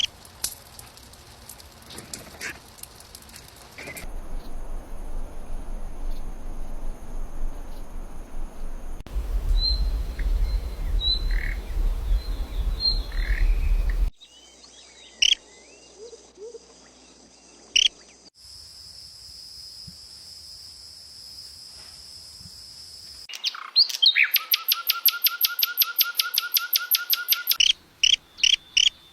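Birds chirping and calling in a string of different recordings spliced together, the background changing abruptly every few seconds. Near the end comes a fast, loud run of rapidly repeated chirps lasting about four seconds.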